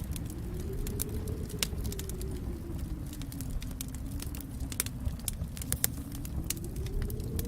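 Wood fire in a fireplace crackling, with irregular sharp pops and snaps over a low steady rumble of the flames. A faint hum slowly rises and falls in pitch underneath.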